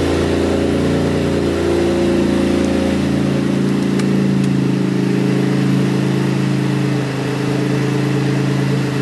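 Car engine, a turbocharged Volkswagen TSI, idling steadily just after being started. The deepest part of its rumble eases off about four seconds in.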